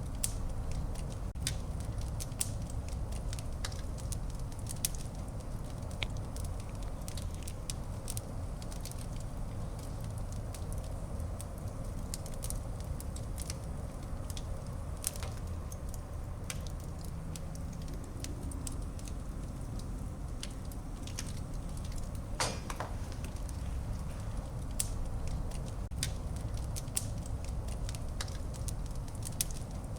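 Fire burning in a fireplace: a steady low rumble of flames with frequent sharp crackles and pops, one louder pop about two-thirds of the way through.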